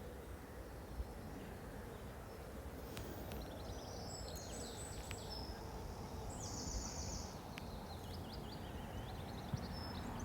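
Several birds chirping and trilling over a steady low background rumble, with one high trill of about a second a little past the middle.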